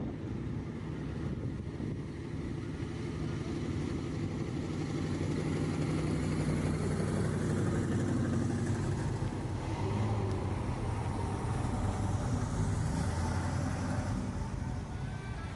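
Car engine running steadily, its low engine note constant throughout, with outdoor crowd noise beneath.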